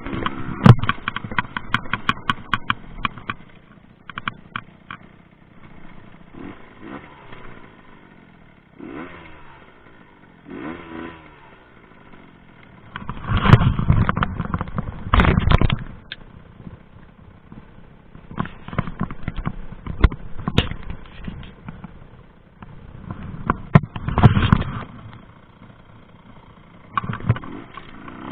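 Rieju MRT 50 two-stroke dirt bike ridden off-road, its engine rising and falling in short surges, with clattering and knocking from the bike over rough ground.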